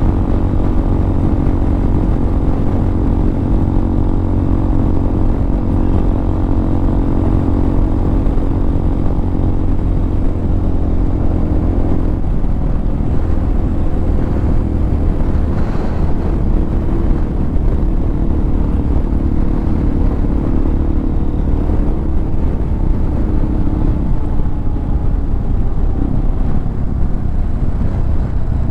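Motorcycle riding on the road, its engine running under heavy wind noise on the microphone. The engine note changes about twelve seconds in, and a slowly falling tone in the last few seconds suggests the bike easing off.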